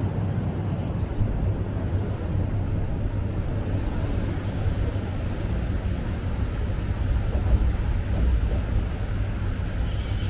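Suburban electric train running at speed, heard from inside the carriage: a steady rumble of wheels on rails. A faint high whine joins about three seconds in.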